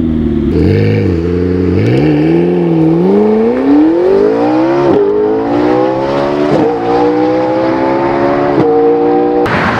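McLaren 650S twin-turbo V8 through an Armytrix Valvetronic exhaust, accelerating hard: the note climbs and drops sharply at three upshifts. A sudden rush of noise comes in just before the end.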